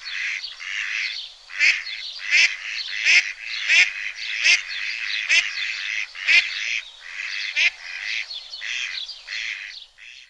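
A flock of waterfowl calling: a dense chorus of overlapping calls, with louder calls rising in pitch standing out about once a second.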